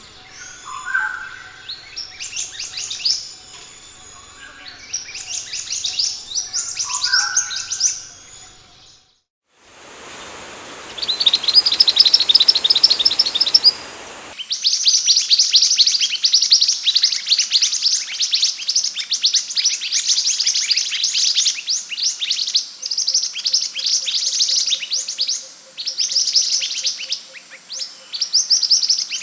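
Scarlet minivet (sepah hutan) song: fast runs of high, sharp chirps repeated phrase after phrase. Just after nine seconds it breaks off briefly, returns over a hiss, and from about fourteen seconds runs on as dense, almost continuous chirping.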